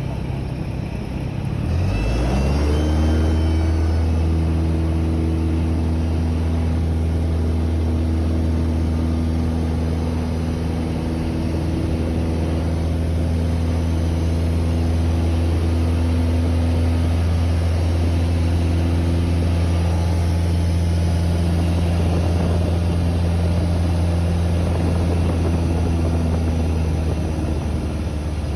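Cessna 172's piston engine and propeller droning, heard from the cockpit. About two seconds in, the pitch rises and it grows louder as power is brought up, then it holds steady, easing off a little near the end.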